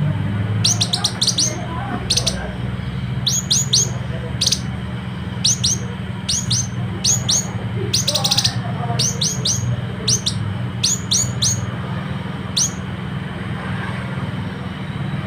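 Citrine canary-flycatcher calling: short, sharp high-pitched notes in quick clusters of two to five, repeated every second or so and stopping about thirteen seconds in. A steady low hum runs underneath.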